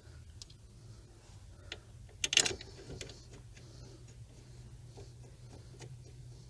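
Scattered metallic clicks and light clanks of the brake caliper bracket and its bolts being handled and fitted, with one louder clatter about two and a half seconds in. A steady low hum runs underneath.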